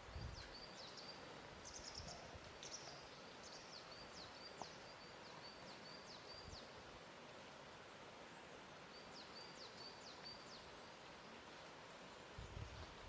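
Faint lakeside ambience: a quiet steady hiss with a few soft, low laps of water. High, quick chirping calls come in two spells, one through the first half and another a little past the middle.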